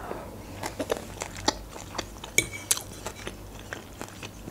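Close-miked chewing of fried egg: scattered wet mouth clicks, with a metal fork clinking once on a ceramic plate about two and a half seconds in.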